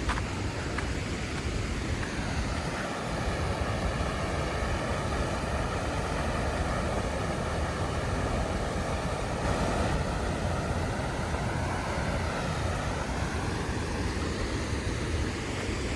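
Waterfall rushing: a steady, full noise of falling water. From about two and a half seconds in until about thirteen seconds, a faint whine of several steady tones sits above it, rising where it begins and dipping where it ends.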